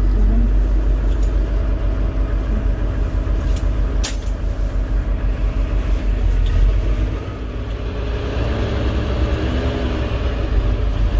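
Semi-truck's diesel engine running, heard from inside the cab as a steady low rumble. There is a sharp click about four seconds in, and the engine sound drops somewhat about seven seconds in.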